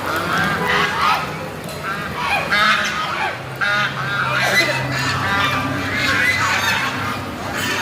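A flock of ducks calling constantly, many short calls overlapping one another.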